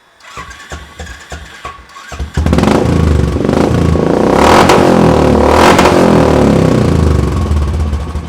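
Royal Enfield Bullet single-cylinder engine through a custom upswept megaphone exhaust. It runs at a low, uneven idle, is revved hard about two seconds in with two rises and falls in pitch, then drops back toward idle near the end.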